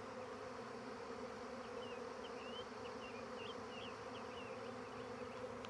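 Honeybee swarm in flight, a steady, pretty loud buzzing drone from thousands of bees. A few faint high chirps sound over it in the middle.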